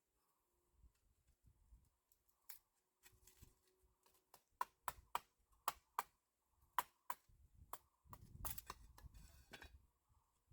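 A scattered series of light, sharp taps and clicks, about a dozen, with a brief low rumble near the end.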